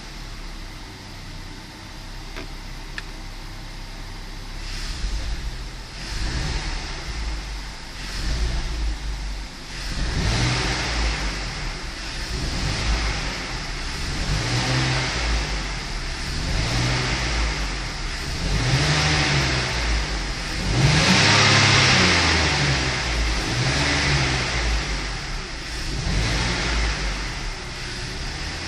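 BMW M54 2.2-litre straight-six engine idling, then blipped again and again from about a third of the way in, each rev rising and falling back, the strongest near the end. This is an engine whose owner says it stumbles when accelerating between about 600 and 1,000-odd rpm, and he suspects the idle air control valve, a vacuum leak or the DISA valve.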